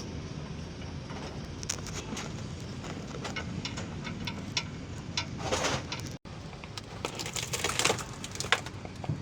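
Workshop clatter of tools and metal parts: scattered clicks and knocks over a steady low hum, with a burst of clatter about five and a half seconds in and denser knocking in the last two seconds.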